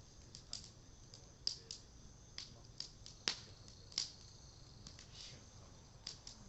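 Cedar wood burning in an open bonfire, crackling with irregular sharp pops, the loudest a little past three seconds in and again at four.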